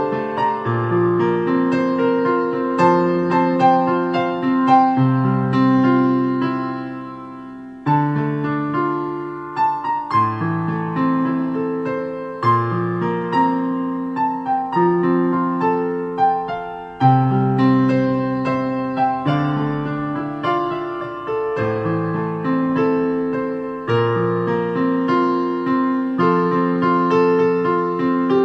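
Background piano music: a slow melody of struck notes over sustained chords, with brief pauses between phrases.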